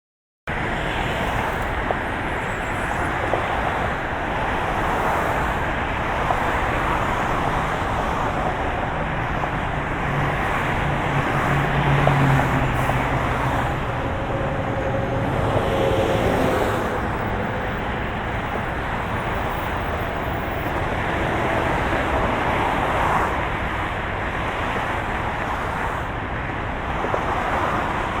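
Moving car, a steady dense rumble and hiss of road and engine noise. It cuts in abruptly about half a second in, and a low engine hum swells briefly around the middle.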